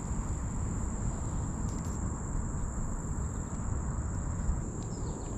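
Insects singing one steady, continuous high-pitched tone, over a low rumble.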